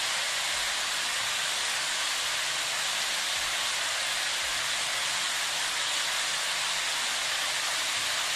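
Chicken pieces frying in oil in a kadhai: a steady, even sizzle.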